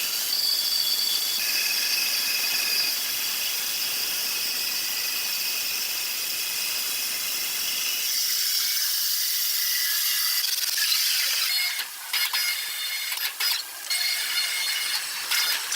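Sawmill saw and machinery running with a steady high-pitched squeal and hiss; about twelve seconds in the sound briefly drops out a few times.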